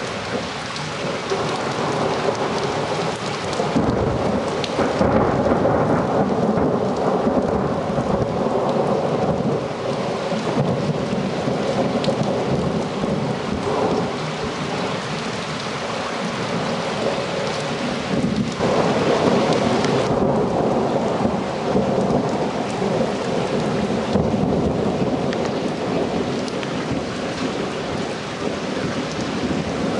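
Thunderstorm: rain falling steadily with thunder rumbling, swelling louder about four seconds in and again past the middle.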